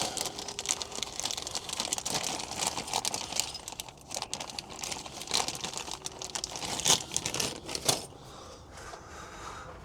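Plastic packaging crinkling and rustling as a small fitting is cut and worked free, with scattered sharp clicks; it goes quieter for the last two seconds.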